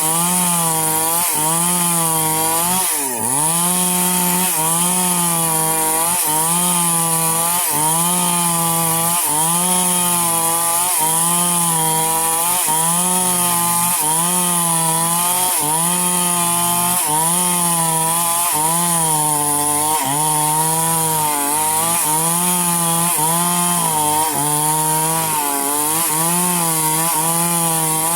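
Chainsaw cutting through wood, held at high revs, its pitch dipping and recovering a little under once a second as the bar is worked through the cut, with one deeper dip about three seconds in.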